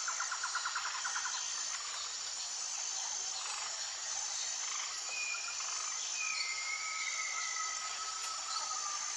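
Outdoor insect chorus: a high, steady trill repeated in phrases about a second long, with a rapid pulsing call during the first second or so. About five seconds in, a couple of long whistled calls, one sliding down slightly, sound over the chorus.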